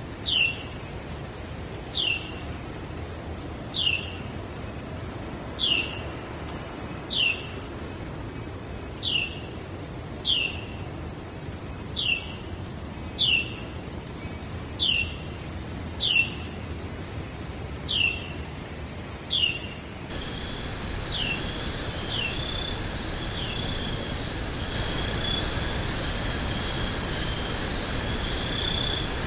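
A bird repeating one short, high, downward-sliding call about every second and a half over a steady background hiss. About two-thirds of the way through, a steady high insect chorus sets in and the bird's calls grow fainter.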